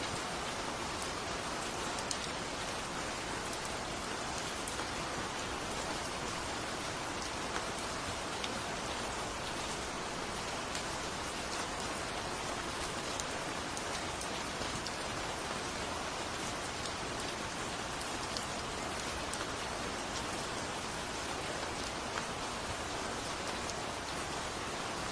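Steady rain falling, an even hiss of rain with fine scattered drop ticks.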